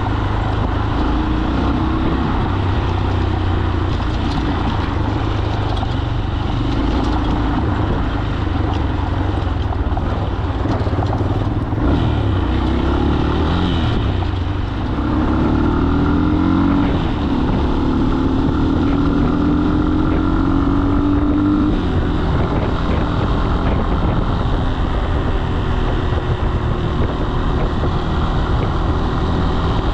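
Single-cylinder 200 cc carbureted motorcycle engine (Falat 200) running under way, recorded on the bike. About twelve seconds in the engine note dips, then from about fifteen seconds it climbs steadily and gets louder as the bike accelerates.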